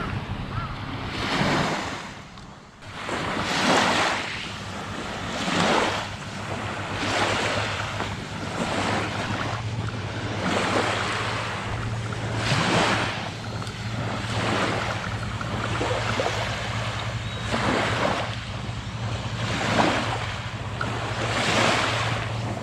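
Small sea waves breaking and washing on the shore, one surge about every two seconds, over a steady low hum.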